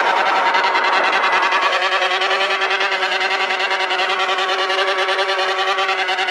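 Motorcycle engine held at high revs, running at a steady pitch with a fast, even pulse.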